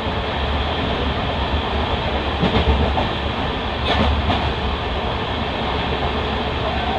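Passenger express train running along the track: a steady rumble of coach wheels on the rails, with a few short clicks from rail joints or points about halfway through.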